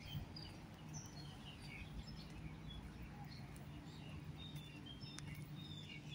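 Small birds chirping faintly and on and off in the trees, over a steady low background hum.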